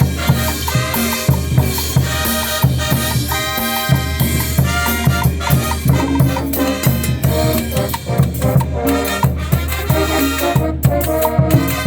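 Brass band music with drums: horns playing held and repeated notes over a steady, regular beat.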